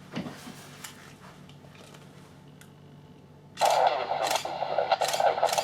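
A few faint clicks, then about three and a half seconds in an air traffic control radio transmission cuts in abruptly: a loud, narrow-band, crackly radio signal that runs to the end.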